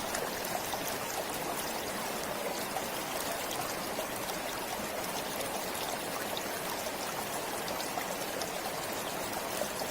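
Stream flowing steadily, a continuous even rush of water with small splashes.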